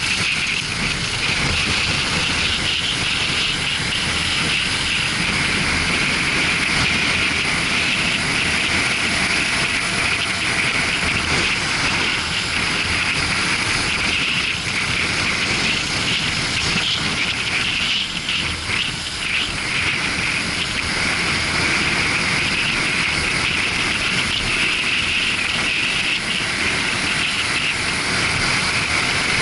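Suzuki GW250 Inazuma's 250 cc parallel-twin engine running steadily at speed, under a constant rush of wind noise on the camera's microphone.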